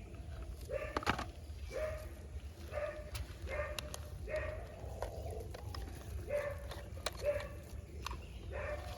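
An animal calling over and over: short pitched calls about once a second, over a low steady hum.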